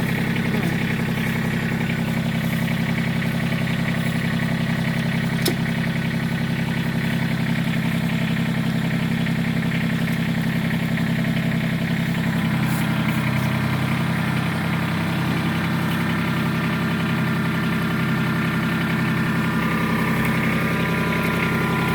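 Kubota tractor's diesel engine idling steadily at low revs. There is a single sharp click about five seconds in.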